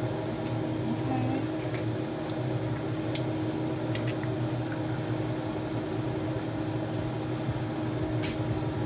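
Steady hum of an appliance fan or motor in the kitchen, with a few faint light clicks over it.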